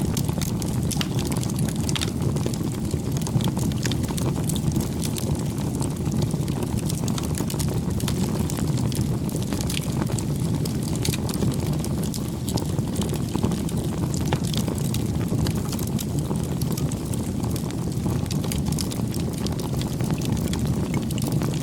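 Campfire burning: a steady low rush of flames under frequent sharp crackles and pops of burning wood.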